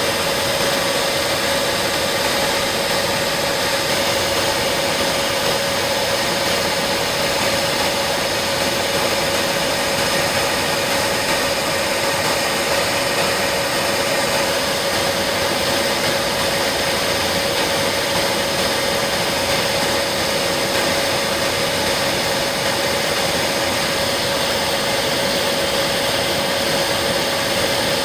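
Steady in-flight cockpit noise of a B-52 bomber: an even rush of engine and airflow noise with a constant mid-pitched hum running through it.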